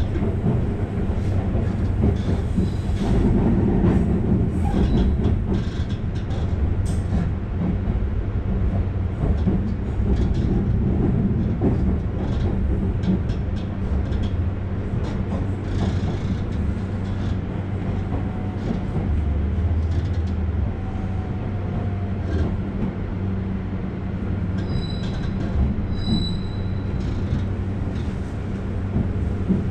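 Diesel railcar heard from inside, running with a steady low engine drone and track rumble, with scattered clicks over rail joints. Near the end, as it enters the station, a high wheel squeal sets in.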